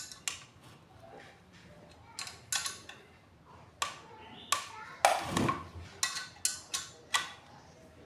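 Metal tools and parts clinking and tapping against each other as an electric water pump is being worked on: a string of sharp clicks at irregular intervals, closer together in the second half.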